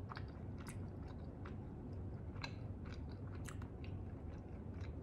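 A person chewing a mouthful of food with the mouth closed: soft, irregular wet clicks and smacks.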